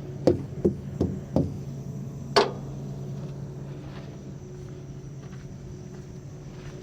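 Four quick sharp knocks, then a fifth about a second later, over a steady low hum of an idling truck engine: the clunks of a semi-trailer's tandem axle slide being moved and its locking pins seating.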